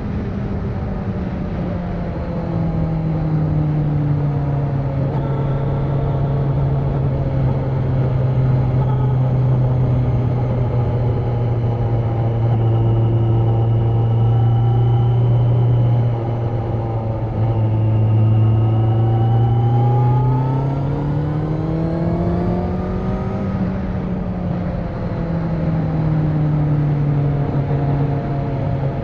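Kawasaki Z900's inline-four engine, running with its catalytic converter removed, under way on the road. The engine note settles low and steady for long stretches, dips briefly near the middle, then climbs as it revs up and falls back near the end.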